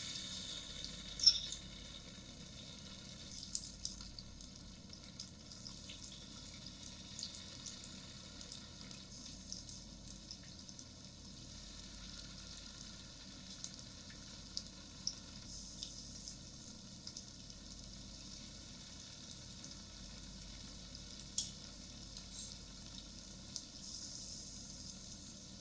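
Food sizzling and crackling in hot oil in a pan, a steady hiss with scattered small pops. A sharp click about a second in, with a few fainter ticks later, as from a utensil against the pan.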